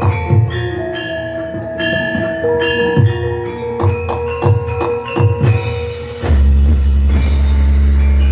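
Javanese gamelan playing a gending: metal-keyed and bossed-gong instruments struck in a rhythmic melody, with hand-drum (kendang) strokes. About six seconds in a large gong sounds, its deep hum loud and ringing on.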